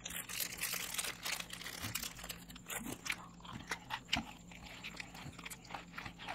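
Chocolates being chewed and crunched with a full mouth: irregular crisp crunches and smacks throughout.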